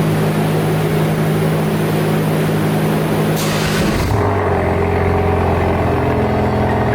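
Car engine running steadily, most likely the Ford Focus RS with its muffler removed. About four seconds in there is a short hiss, and the engine note drops to a lower, steady idle.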